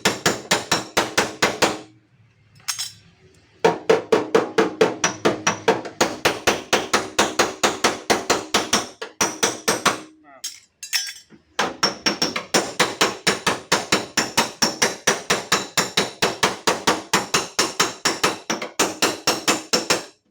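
Hammer tapping rapidly on the sheet-metal tailgate of a Daihatsu Xenia, about four or five blows a second, each with a ringing metallic note, as a dent is worked out of the panel. The tapping comes in three runs with two short breaks.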